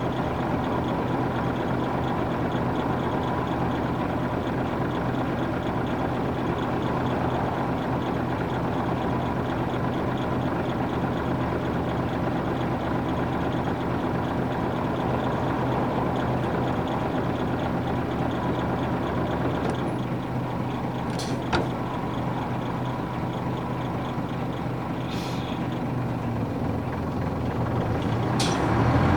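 Nissan Diesel UA440 city bus's PF6 diesel engine idling steadily while the bus stands, heard from on board. A couple of sharp clicks and a brief hiss come in the last third, and the engine begins to pick up right at the end.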